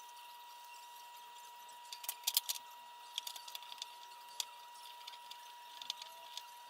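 Scattered light clicks and taps, a cluster of them about two seconds in, from small parts being handled during assembly, over a faint steady high hum.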